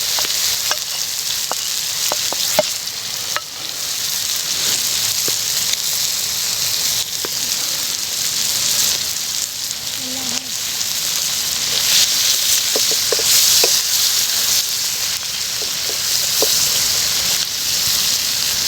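Beef liver sizzling as it fries in hot oil: a steady hiss with scattered small pops and ticks.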